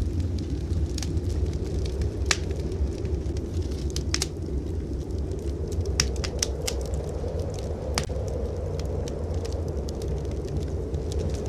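Wood fire in a fireplace crackling, with irregular sharp pops, over a steady low rumble of blizzard wind.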